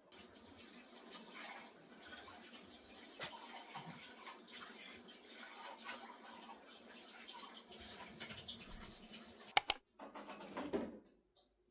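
Water running from a tap, with small ticks and clinks, then a sharp double click about nine and a half seconds in.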